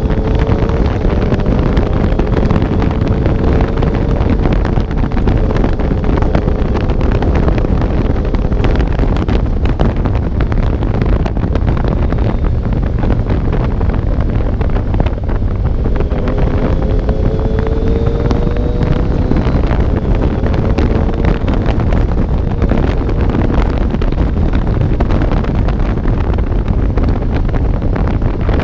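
Motorcycle on the move, with wind buffeting the microphone and the engine's hum underneath. The engine note rises a little at the start and again about sixteen seconds in, then levels off.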